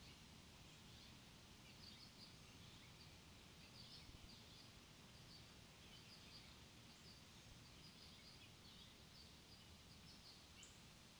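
Faint, rapid high-pitched chirps and twitters from small songbirds, repeating throughout over a steady low outdoor rumble.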